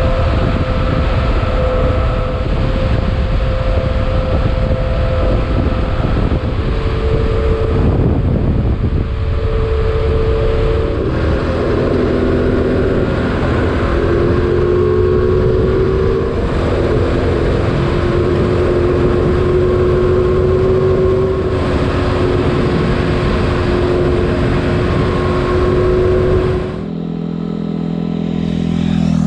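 Motorcycle riding along with its engine running, under a heavy rumble of wind and tyre noise; the engine note shifts up and down several times as the speed changes. Near the end the rumble drops off suddenly, leaving a lower, steadier engine note.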